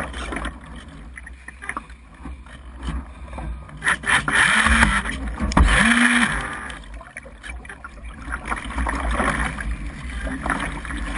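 Strong gusty wind buffeting the microphone, a steady low rumble with a rushing hiss that swells about halfway through and again near the end. Two brief low hums sound in the middle.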